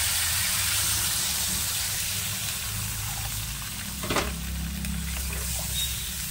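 Tomato and spice masala sizzling in a hot kadai as water is poured in, the sizzle slowly dying down. A single clink about four seconds in.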